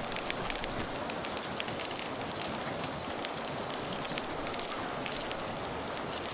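Steady rain with a wood fire crackling over it, many small sharp pops scattered through the even hiss.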